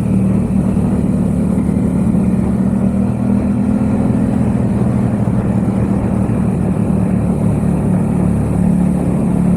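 Yamaha XSR700's parallel-twin engine with a Mivv aftermarket exhaust, running at a steady pitch while the motorcycle cruises at constant speed.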